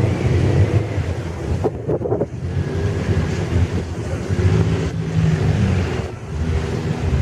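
Vintage racing car engine running, its note shifting up and down, with wind buffeting the microphone.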